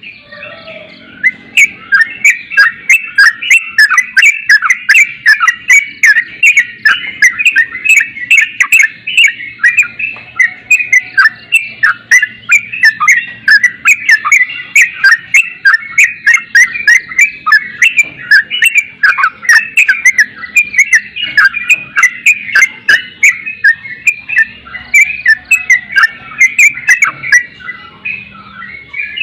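Yellow-vented bulbul (trucuk) calling: a loud, continuous stream of rapid, chattering chirps, with sharp clicks running through it.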